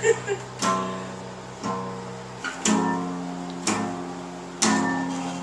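Acoustic guitar chords strummed about once a second, each chord left to ring and fade before the next.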